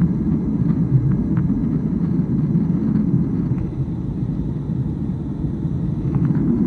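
Airliner cabin noise in flight: a steady low rumble of engines and airflow heard from inside the cabin, with a few faint small clicks.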